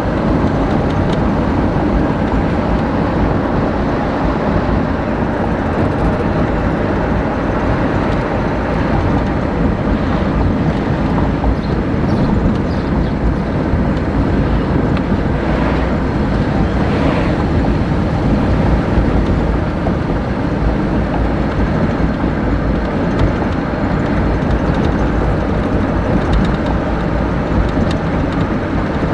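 Steady, loud rumbling noise with no distinct events.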